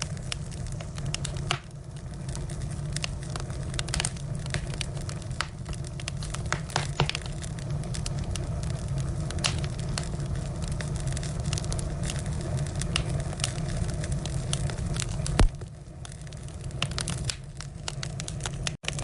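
Firewood burning, crackling and popping irregularly over a steady low rumble, with one loud pop about three-quarters of the way through.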